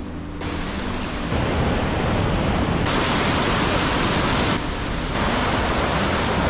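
Rushing water of a stream or waterfall, a steady loud hiss that jumps louder and brighter in sudden steps about a second in and again about three seconds in, then dips briefly near the fifth second.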